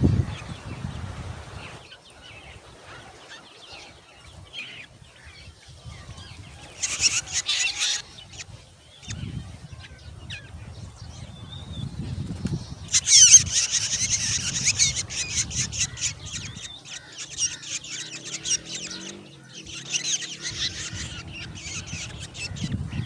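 Black drongo nestlings giving harsh, high, crackling begging calls in bursts. The loudest and longest spell comes about halfway through, and a low rumble comes and goes beneath.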